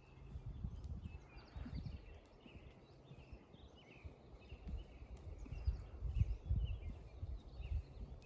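Songbirds chirping over and over in short, high notes, with gusts of wind rumbling on the microphone.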